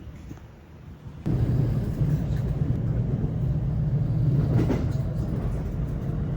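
Steady low rumble of a moving vehicle, cutting in suddenly about a second in after a quieter stretch.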